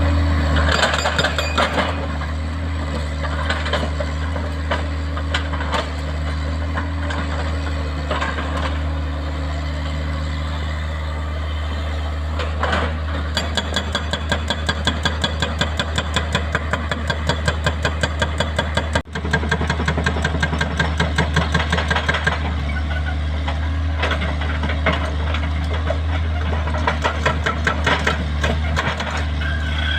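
Excavator diesel engine running steadily. From about halfway through, a rapid, even knocking of about three blows a second sounds over it.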